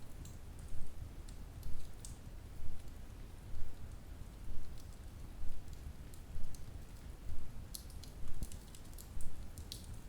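Wood fire crackling: scattered sharp pops and ticks over a low, steady rumble of burning logs that swells about once a second.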